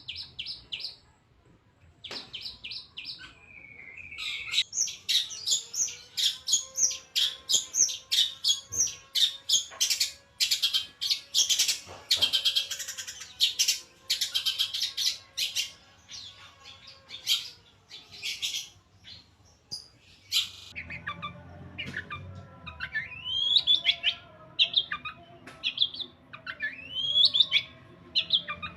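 Long-tailed shrike (cendet) singing: a fast, dense run of chirps and harsh notes, then a series of rising peeping calls in the second half. This is a mimic known for copying chickens, cats and chicks.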